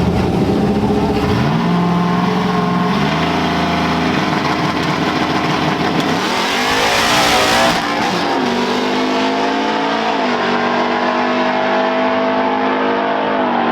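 Drag-racing trucks' engines running hard down the strip, the pitch stepping up a couple of times in the first few seconds. About seven seconds in a truck passes close with a loud rush, then steady engine running follows.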